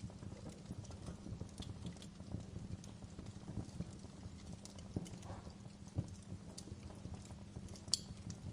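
Wood fire crackling in a fireplace: a steady low rumble of burning under frequent small irregular ticks, with sharper pops about five and six seconds in and the loudest snap near the end.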